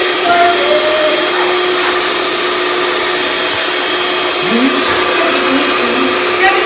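Handheld hair dryer running steadily at full blow, used in place of a pump to inflate an inflatable pool. It is a continuous even rush of air with a steady motor hum underneath.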